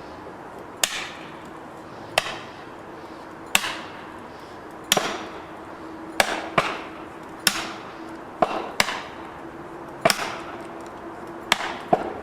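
Repeated chopping blows on wood, about a dozen sharp strikes roughly a second apart, some landing in quick pairs, each ringing briefly.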